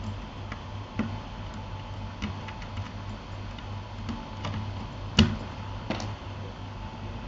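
Keychron K8 keyboard fitted with Gateron Aliaz silent tactile switches, keys pressed one at a time in scattered, sparse keystrokes, one noticeably louder about five seconds in.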